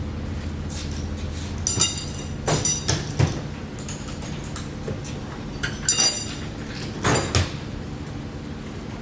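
Metal clinking and rattling in four short clusters, the sound of metal parts or tools knocking together, over a steady low hum.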